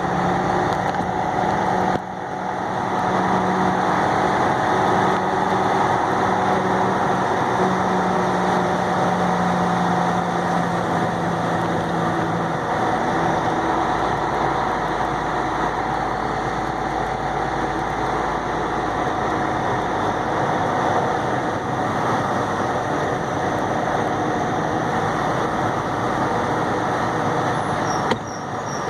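A semi truck's diesel engine running steadily, heard from inside the cab, with a steady low drone.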